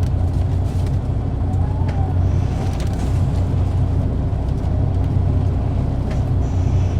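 Cabin running sound of an Isuzu Erga PKG-KV234L2 city bus, its diesel engine giving a steady low drone as the bus drives. The engine is one its recordist labels as having an abnormal noise. A faint high whine comes and goes twice.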